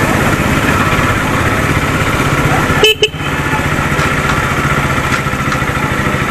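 Motorcycle engine running steadily while riding in town traffic, with wind and road noise and a brief break about three seconds in.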